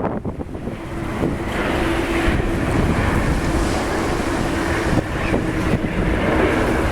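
Strong wind buffeting the microphone over the low rumble of a jet airliner's engines, which grows louder about a second in. A steady hum is held through most of it.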